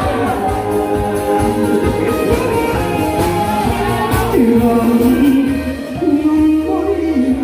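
A singer's voice carrying a melody over instrumental backing music with a beat.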